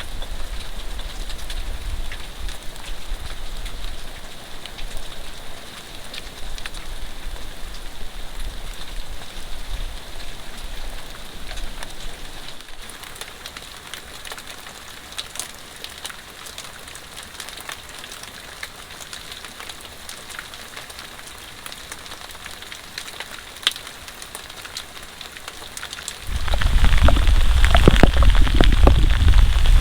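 Heavy rain falling steadily, with single drops clicking close by. Near the end a loud low rumble starts suddenly and keeps going.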